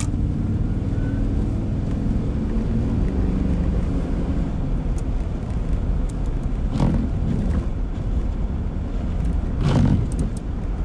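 Steady road and engine rumble heard inside a car driving on slushy, wet roads in freezing rain. Windshield wipers sweep across the iced glass with a short whooshing scrape about seven seconds in and again near the end.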